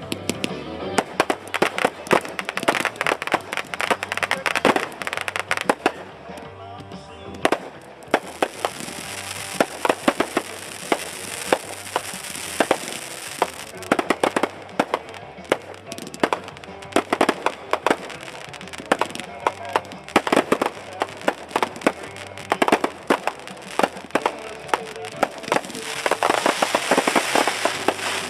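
Aerial fireworks shells bursting in quick, irregular succession, many sharp bangs with barely a pause between them, coming thickest near the end.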